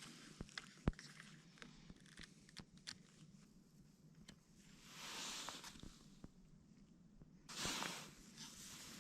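Faint handling sounds: scattered small clicks and knocks, with two short rustling swishes about five and seven and a half seconds in.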